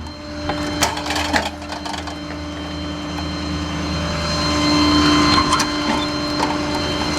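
A steady machine hum with a constant whine, and a few knocks and rattles about a second in.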